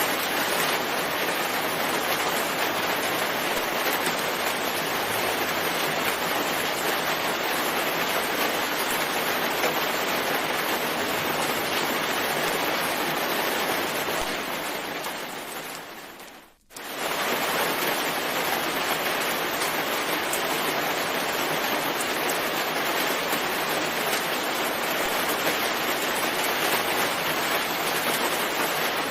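Steady rain falling as an even hiss. About halfway through it fades out over a couple of seconds to near silence for an instant, then comes straight back at full level.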